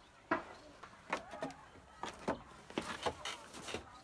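A series of sharp, irregular knocks and clicks, about two a second, some with a brief ringing tail.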